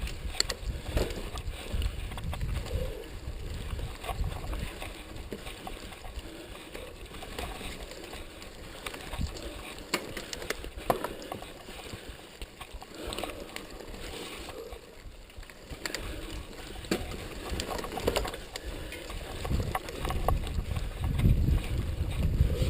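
Mountain bike ridden over a dirt trail: tyres on rough ground with frequent clicks and knocks of the frame and drivetrain rattling, and a low rumble of wind on the microphone that grows louder near the end.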